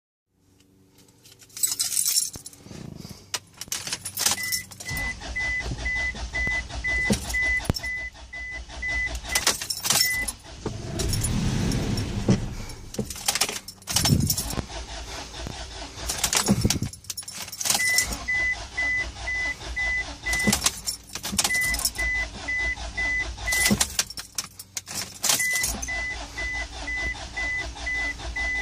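Car keys jangling and clicking in the ignition of a 2004 Isuzu Rodeo 3.5L that won't start, with a dashboard warning chime beeping rapidly in several runs and a low drone underneath, broken by clicks.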